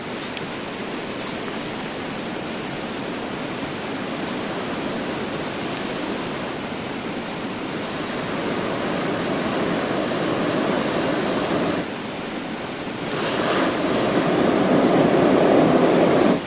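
Steady rush of flowing water from a mountain stream, louder in the last few seconds, with sudden changes in level at about twelve seconds and at the end.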